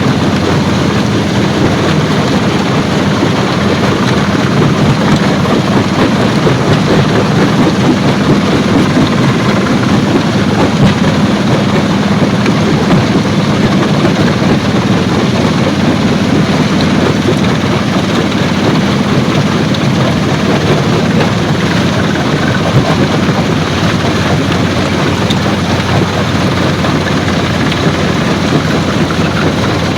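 Stone-crushing plant machinery running steadily: a loud, even mechanical din with a constant low hum.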